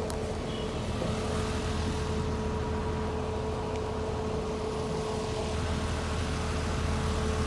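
Steady low rumble of a motor vehicle running, with a constant mid-pitched hum over it.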